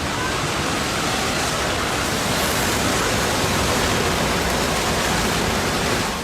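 A landslide of earth and rocks sweeping downhill, heard as a loud, steady rushing noise.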